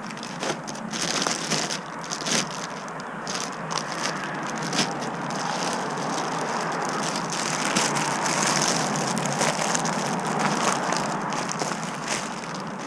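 Crinkling and rustling of packaging as replacement parts are handled and unwrapped, with scattered small clicks and knocks throughout.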